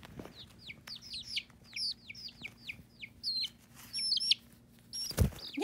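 Baby chicks peeping over one another, a rapid run of short high peeps, each falling quickly in pitch. A brief thump or rustle sounds near the end.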